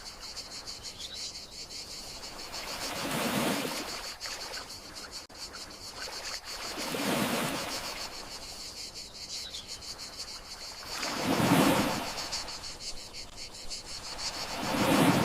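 Gentle sea waves washing in on the shore, swelling and fading about every four seconds, over a steady high chirring of crickets.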